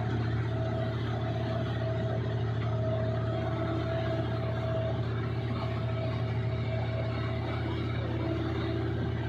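Combine harvester running steadily at working speed: a deep, even engine drone with a steady higher whine over it.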